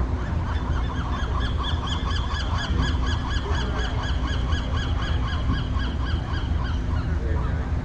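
A bird calls in a rapid, even series of short pitched notes, about five a second, stopping about seven seconds in. Under it runs a steady low rumble from the docked ferry's idling engines.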